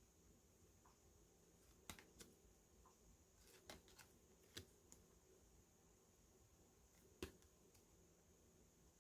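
Near silence: faint room hiss with a few soft, scattered clicks and taps of merchandise and packaging being handled.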